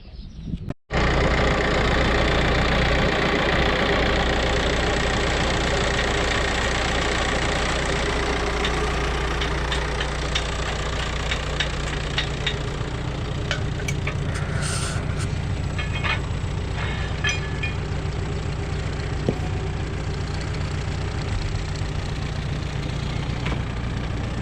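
Tractor engine running steadily after a cut about a second in, with scattered light clicks and rattles in the middle stretch.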